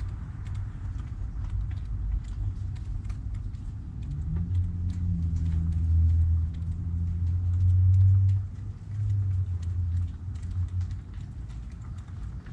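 Low rumble of a passing motor vehicle, swelling about four seconds in and fading near the end.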